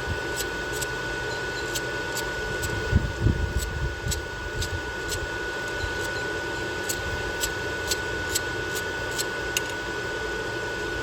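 Ratchet wrench clicking in short irregular runs, about two clicks a second, while the knock sensor is unbolted from a Ford 5.4 Triton V8, with a couple of dull knocks from the tool. Underneath is a steady hum with a constant thin whine.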